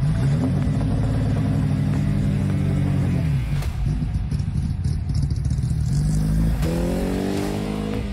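Small hatchback race car's engine revving hard. Its pitch climbs early on and holds for a couple of seconds, falls away about three seconds in, then climbs steeply again near the end as the car accelerates.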